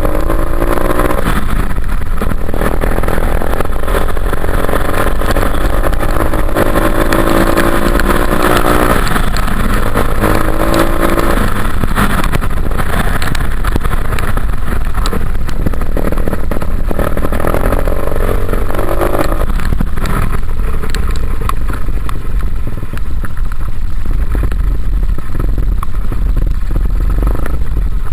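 Dirt bike engine revving up and easing off several times while riding, under a heavy low rumble.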